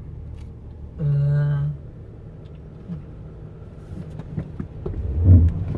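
Car's low rumble heard inside the cabin as it creeps slowly forward into an automatic car wash. About a second in, a steady held tone sounds for under a second, and near the end there is a louder low thud.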